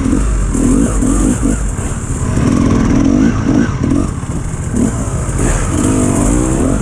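Dirt bike engine on an enduro ride, revving up and down over and over as the throttle is worked through a muddy section.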